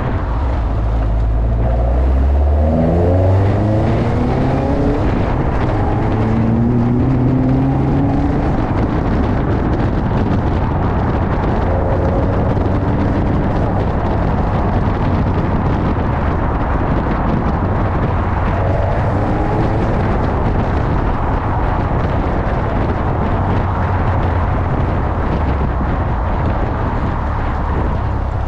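Westfield sports car engine under way, its revs climbing and dropping several times in the first ten seconds as it accelerates through the gears, then running more steadily at cruise. Tyre and wind noise run under it throughout.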